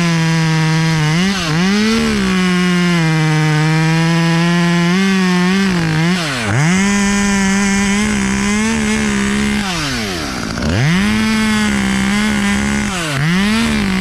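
Two-stroke chainsaw at full throttle cutting through a white oak limb. The engine note drops and picks back up several times as the throttle is let off and reopened, with the deepest drops about six and a half and ten and a half seconds in.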